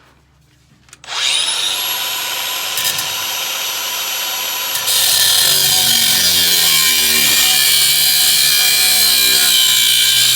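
Cordless angle grinder spinning up with a rising whine about a second in and running free, then biting into steel about five seconds in, which adds a loud, harsh hiss over the motor.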